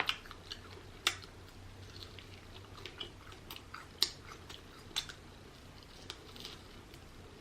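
A person chewing rotisserie chicken close to the microphone: faint, irregular wet mouth clicks and smacks, with a few sharper ones about a second in and around four and five seconds in.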